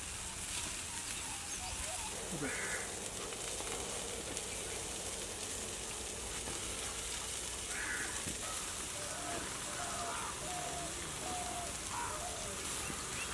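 Several short bird calls, one about two seconds in, one near eight seconds, and a quick run of notes later on, over a steady hiss and crackle from the cooking fire.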